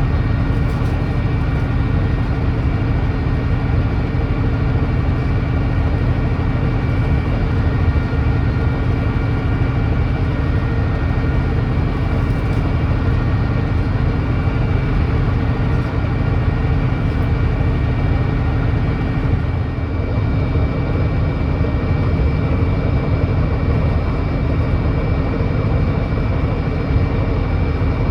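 Volvo D9B 9.3-litre diesel engine of a Volvo B9TL double-decker bus running at a steady speed, heard on board. The engine has an exhaust leak.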